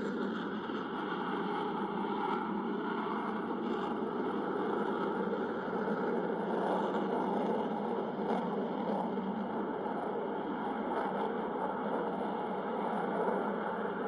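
Jet engine noise from an F-22 Raptor's twin Pratt & Whitney F119 afterburning turbofans flying its demonstration: a steady rushing noise with no breaks.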